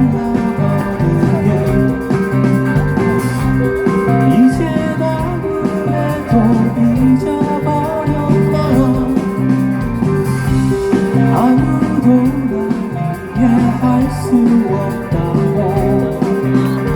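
Live rock band playing loud, with electric guitars, bass and drums, recorded from the audience on a phone.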